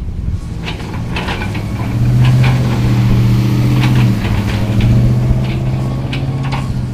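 A vehicle engine running steadily, getting louder about two seconds in, with scattered clanks and clicks over it.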